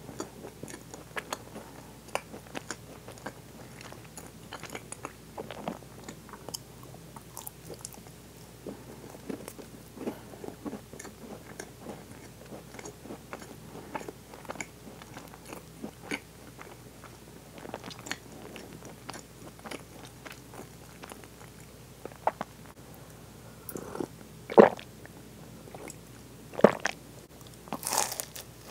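Close-miked chewing of soft pastry and whipped cream, heard as many small wet mouth clicks and smacks. Near the end come a few louder, sharp bites into a chocolate-coated French cruller.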